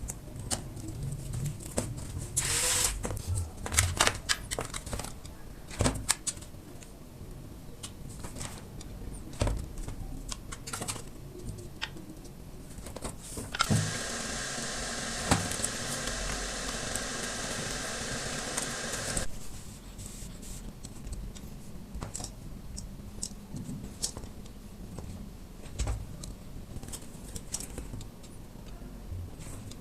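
Small-scale crafting work on metal can parts: scattered clicks and taps, and a steady noise about halfway through that lasts roughly six seconds and cuts off sharply.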